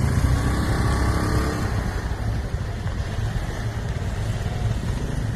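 A road vehicle's engine running steadily while driving, with a pitched engine note that fades out after about two seconds.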